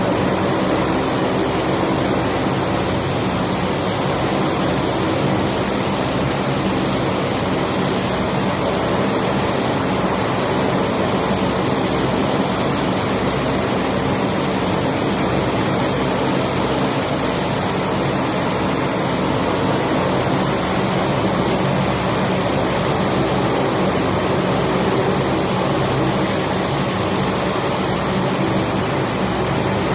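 An aircraft's engines running steadily: a constant, unchanging drone with several steady tones.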